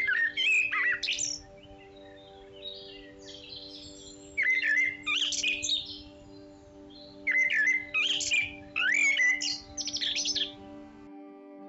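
A songbird singing several short, loud, chirping phrases a few seconds apart, over a faint steady low hum.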